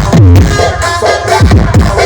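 Electronic dance remix played loud through a large carnival sound system, with heavy bass kicks that drop in pitch and a sustained deep bass under synth lines.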